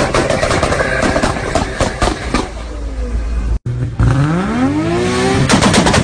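Toyota Supra Mk4's 2JZ inline-six engine running hard with a rapid crackle from the exhaust. After a sudden cut, a rev rises and falls, then breaks into a fast string of exhaust pops and bangs near the end.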